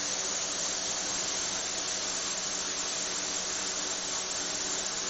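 CNC stone-working machine running a cut into solid stone: a steady hiss with a low hum underneath, unchanging throughout.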